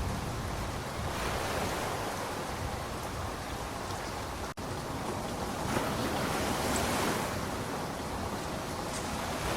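Steady rainfall, an even hiss of falling rain that drops out for an instant about halfway through.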